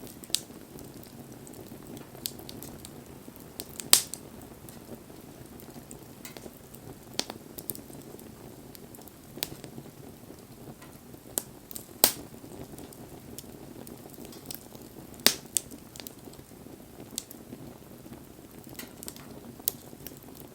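Wood campfire burning: a steady low rush with sharp crackles and pops every second or two, the loudest pops about four, twelve and fifteen seconds in.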